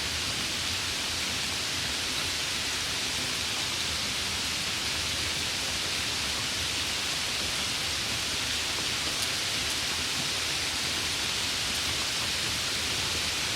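Steady rain, an even, unchanging hiss that is brightest in the treble.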